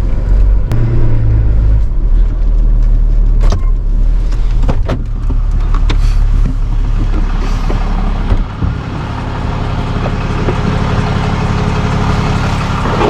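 Motor vehicle engine running steadily, with a few sharp clicks; about eight and a half seconds in the deep hum drops away and a different engine sound with more mid-range takes over.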